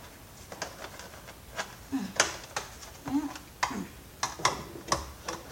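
Plastic parts of a vacuum cleaner's housing clicking and knocking irregularly as a stuck piece is worked at to get it out.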